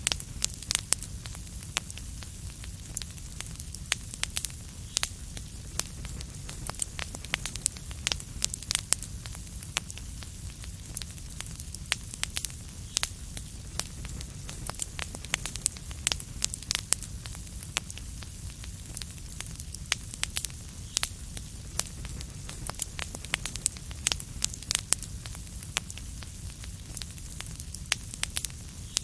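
Wood fire crackling in a fireplace: frequent sharp, irregular pops and snaps over a steady low rumble and soft hiss.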